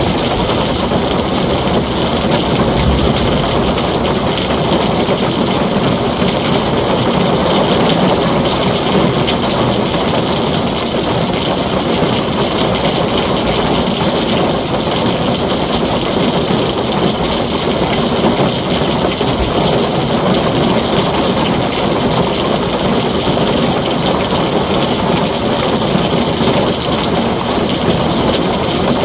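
Heavy rain falling on a tin roof, a steady, dense, unbroken rush.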